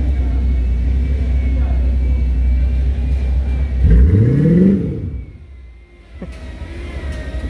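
Chevrolet Corvette's V8 running with a deep, steady rumble, then revving up once about four seconds in as the car pulls away; the sound falls away soon after and a lower rumble carries on.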